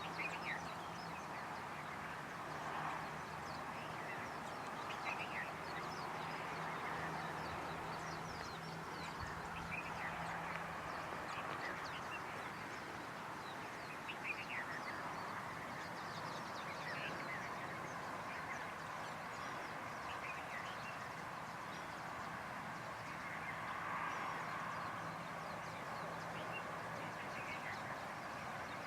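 Birds calling outdoors: many short chirps over a steady background chorus, with a faint low hum underneath.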